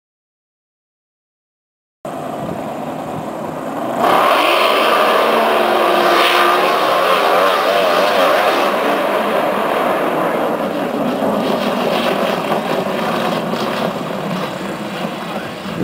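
Silence for about two seconds, then a racing boat's engine running at high speed, louder from about four seconds in, its pitch wavering up and down.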